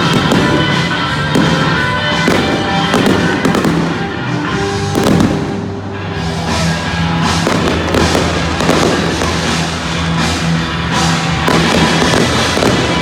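A fireworks display: shells bursting and crackling one after another at an irregular pace, over music with steady held notes.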